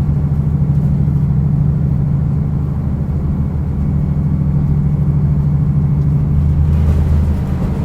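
Diesel railcar heard from inside the car while running, with a steady low engine hum. Near the end the engine note changes and a rushing noise grows.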